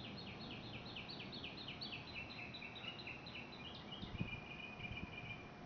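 A songbird singing a fast run of repeated high chirps, about five a second, that changes into a buzzy trill for the last couple of seconds. A single soft low thump sounds about four seconds in, under a steady background hiss.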